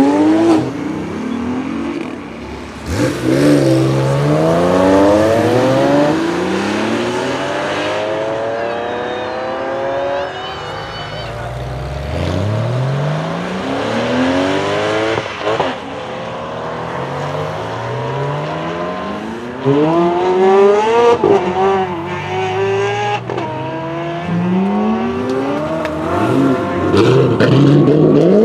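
Sports cars accelerating hard away one after another, each engine's pitch climbing steeply and dropping back at every upshift. It is loudest at the start and again near the end.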